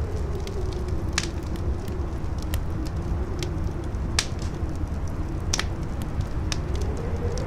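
Campfire crackling with scattered sharp pops, over a steady low rumble of wind and a wavering howl of wind that rises near the end.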